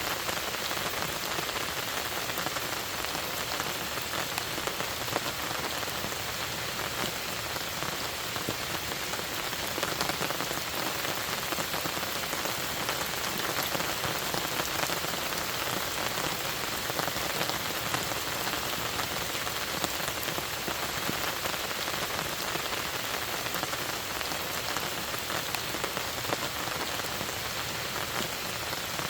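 Steady rain falling on a lake and its shore, a continuous hiss of many small drop ticks.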